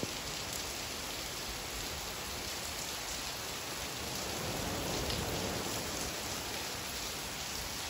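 Steady rain falling, an even, continuous hiss that swells slightly about halfway through.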